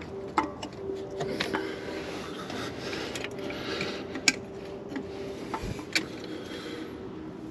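Hand work on a truck engine bay: scattered light metal clicks and knocks with rubbing, as a coolant hose and its clamps are worked into place, over a faint steady hum.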